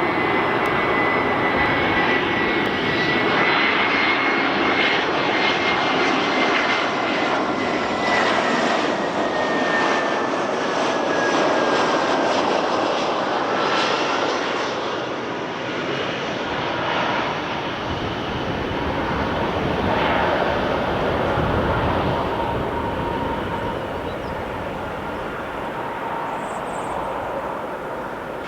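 Airbus A320 jet airliner's engines running as it lands, a loud steady rush with a thin whine that slowly drops in pitch, gradually fading over the last few seconds.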